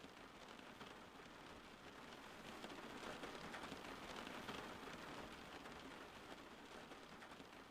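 Steady rain falling, a dense hiss of fine drops that swells a little in the middle.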